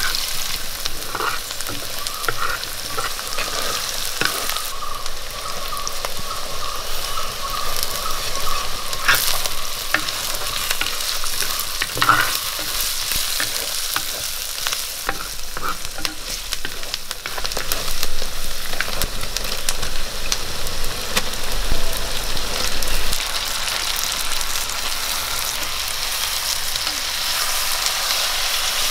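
Chopped shallots, green chillies, ginger and garlic sizzling in hot oil in a clay pot, stirred with a spatula. The steady frying hiss is dotted with small clicks and crackles.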